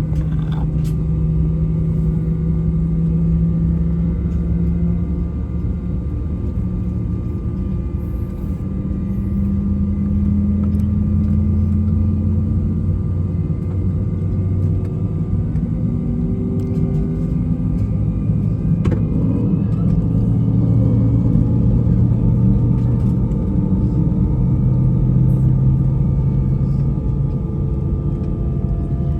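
Airbus A320 cabin noise while taxiing at low thrust: a steady drone from the IAE V2500 engines, with their tones slowly shifting in pitch, over a low rumble.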